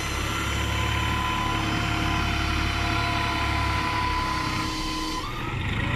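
Heavy diesel machinery engine running hard, with a deep rumble and a thin steady whine; about five seconds in the sound shifts abruptly and the upper hiss cuts out.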